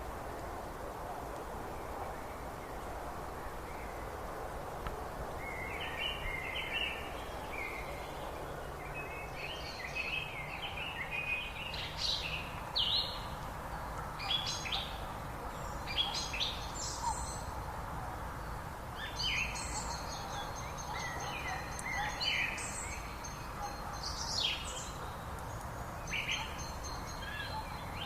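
Several small birds singing and chirping in quick, varied phrases over a steady rushing background noise. The birdsong starts about five seconds in and grows busier toward the end.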